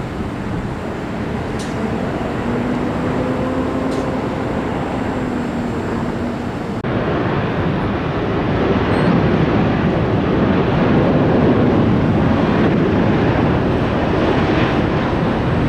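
Jet airliner engines running as the plane passes: a steady rushing roar with a faint low whine in the first half. It jumps abruptly about seven seconds in and then grows louder.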